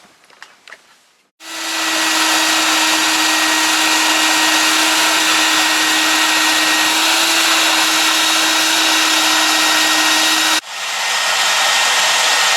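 A small electric blower motor switches on about a second and a half in and runs with a steady rush of air and a hum. Near the end it cuts out for an instant and spins straight back up.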